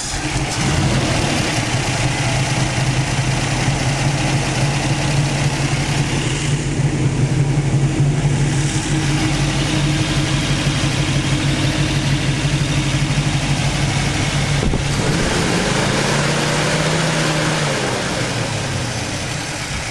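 1956 Ford Thunderbird's 312 Y-block V8 running steadily at idle just after starting up. Near the end the engine speed rises briefly and falls back.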